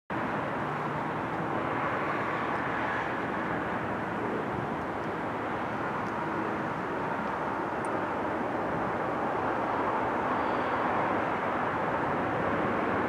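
Steady distant rumble of an approaching diesel freight train led by GE AC4400CW locomotives, slowly growing louder.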